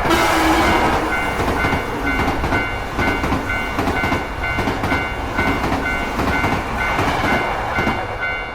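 A train passing over a level crossing, its wheels clattering and rumbling; it starts suddenly and stops just after the end. Under it a Japanese level-crossing alarm bell keeps sounding its kan-kan, about two dings a second.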